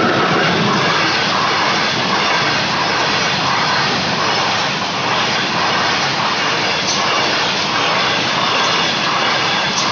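A train passing at speed close by: a loud, steady rushing rumble of wheels on rails and moving wagons.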